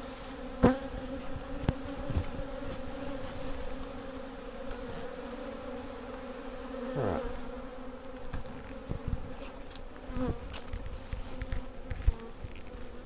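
Honey bee swarm buzzing, a steady hum, with a few sharp clicks.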